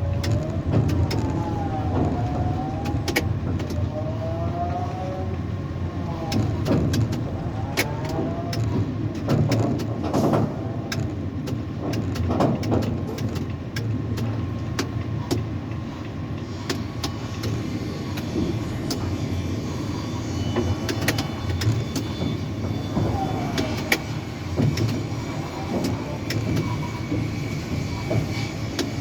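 Tower crane machinery running: a steady mechanical rumble with short whines that rise and fall in pitch several times, and scattered clicks.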